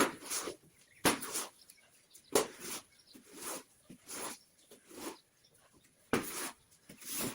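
Birds calling in short bursts, about one a second.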